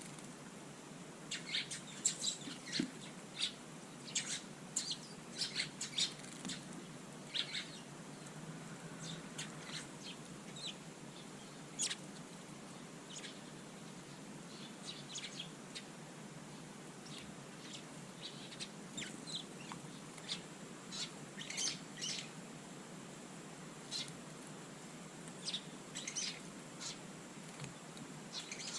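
Small garden birds chirping: many short, high calls in scattered bursts, busiest in the first several seconds and again in the latter part.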